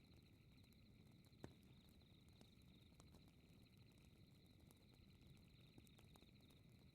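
Faint crackling fireplace: a low steady rumble of burning wood with scattered sharp pops, the loudest about a second and a half in. Behind it runs a steady, high, pulsing trill of night crickets.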